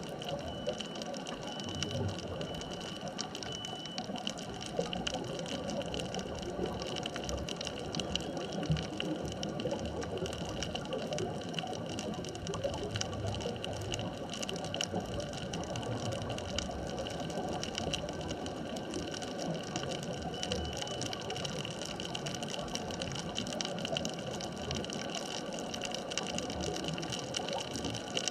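Underwater ambience at a deep wreck reef: a steady wash of water noise over fine, constant crackling clicks, with a steady high-pitched tone running underneath.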